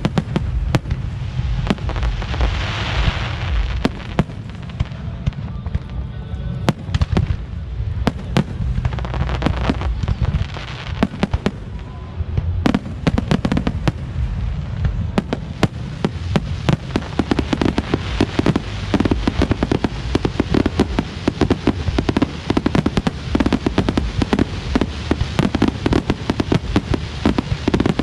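Fireworks display: repeated bangs and booms with hissing bursts, turning into a dense, nearly continuous barrage of bangs and crackles from about halfway through.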